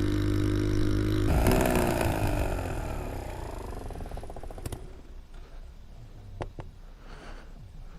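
Motorcycle engine running at steady revs, then from about a second in its pitch falls away as the bike slows, the sound fading down toward idle. A few faint clicks come in the quieter second half.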